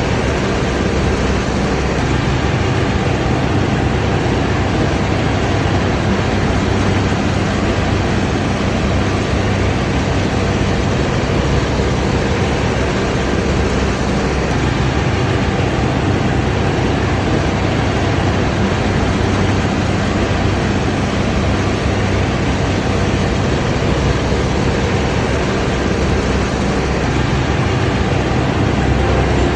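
Combine harvester running steadily under load, a constant dense machine noise with a low engine hum.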